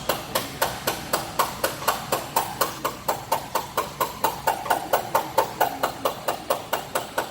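Hammer blows on metal in a steady, fast rhythm of about four strikes a second, each with a brief ringing note.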